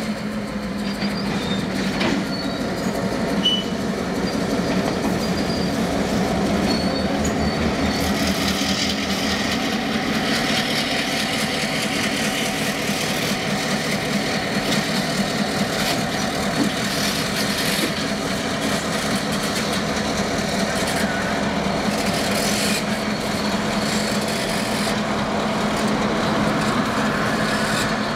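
Diesel freight locomotives working a yard shunting move: their engines running steadily and loudly, with rail and wheel noise from the moving cars and a few short knocks in the first few seconds.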